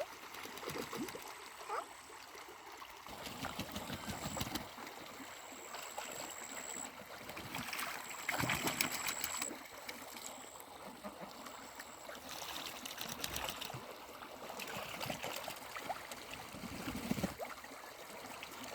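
Water trickling and splashing, with many small clicks and louder splashy stretches. A thin high tone comes and goes.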